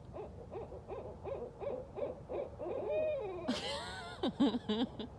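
Several barred owls calling back and forth: a quick run of short hoots, then about three and a half seconds in, louder, wilder calls from more than one bird overlapping.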